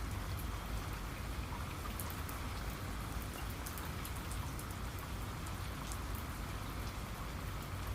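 Steady rain falling, with many small individual drop ticks over an even hiss.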